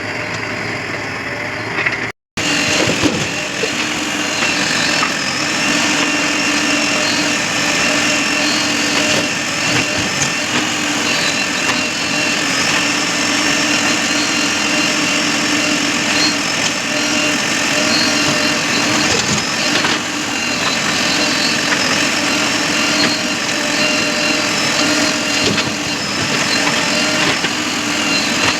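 Heavy diesel engines running steadily, from a backhoe loader and tractors at work, with a brief dropout about two seconds in.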